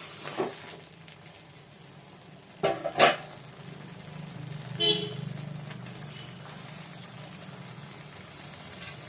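A utensil knocking against a metal cooking pot as par-boiled rice is layered into it: a few sharp knocks, two close together about three seconds in, then a short ringing clang about five seconds in. A low steady hum runs underneath from about four seconds on.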